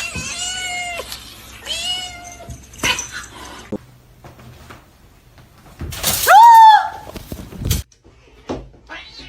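A cat meowing: two drawn-out meows in the first two and a half seconds, then a louder, longer meow about six seconds in. A couple of short knocks fall between them.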